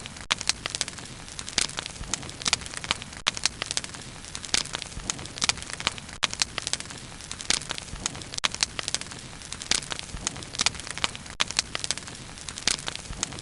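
Wood bonfire crackling steadily, with frequent sharp pops and snaps over a low hiss of burning.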